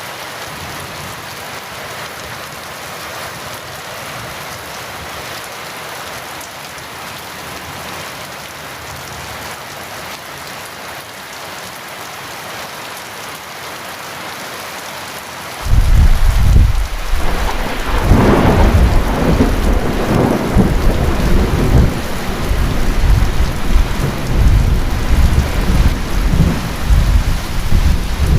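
Steady heavy rain hissing. About halfway through, thunder breaks in suddenly as a loud low rumble, with a sharper crack a couple of seconds later, and keeps rolling in waves over the rain.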